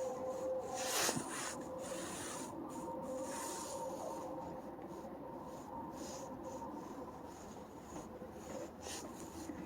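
Faint rubbing and scratching noises with scattered clicks, the loudest about a second in, over a steady low hum.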